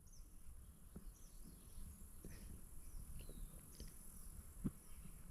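Faint wild birdsong: scattered short chirps and whistles from several birds over a steady high hiss and a low rumble, with one soft thump near the end.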